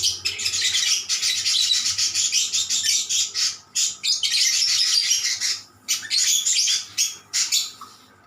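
Lovebirds chattering in rapid, high-pitched twittering runs and answering one another, with short breaks between runs. The chatter dies away near the end.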